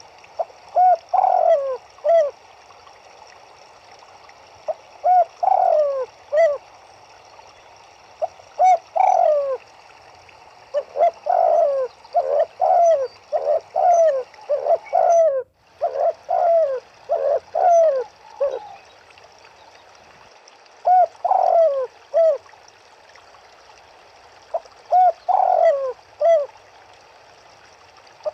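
Doves cooing in short phrases of three or four falling notes a few seconds apart, with a busier run of overlapping coos in the middle, over a steady hiss of running river water.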